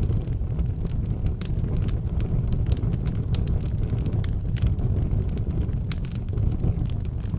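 Fire burning in an outdoor fireplace, crackling with frequent irregular sharp pops over a steady low rumble.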